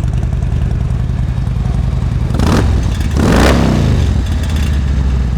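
2008 Harley-Davidson Street Glide's Twin Cam 96 V-twin idling through a Vance & Hines True Dual exhaust. The throttle is blipped twice about two and a half and three seconds in, each rev rising and dropping back to idle.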